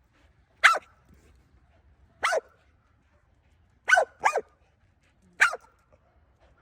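Dog barking: five short, sharp barks, spaced out with one quick double near the middle.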